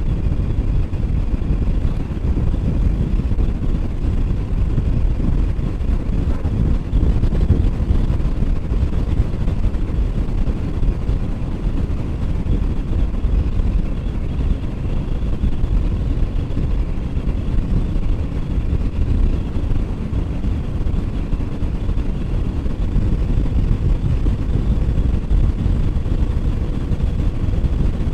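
Steady wind rush and road noise from a motorcycle riding at speed, a continuous low rumble with no change.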